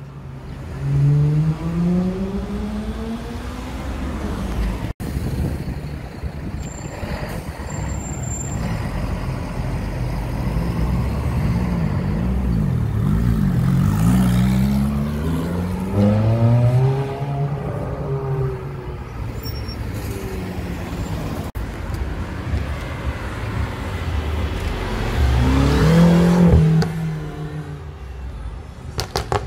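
Cars accelerating past one after another, each engine note rising as it pulls away. In the middle a Ferrari F430 Spider's V8 revs up and down and then accelerates, and near the end the loudest pass rises sharply.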